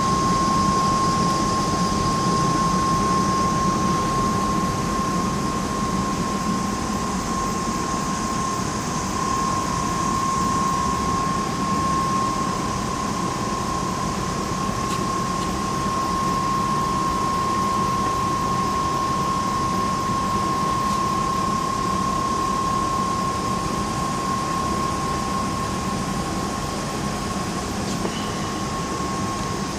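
Steady mechanical drone with a constant high whine held on one pitch, unchanging throughout.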